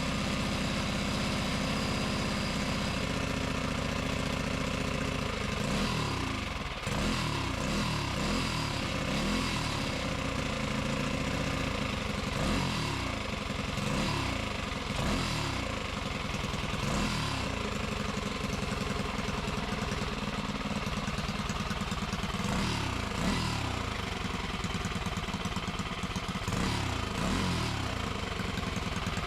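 Predator 212 single-cylinder four-stroke engine on a newly built mini bike runs steadily for about five seconds, then is revved up and down over and over. This is the engine's first run after the build, being run in.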